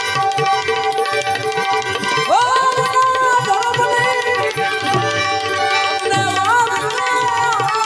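Gujarati devotional music: tabla playing a steady rhythm under a melody that slides up in pitch about two seconds in and wavers near the end, over a held drone.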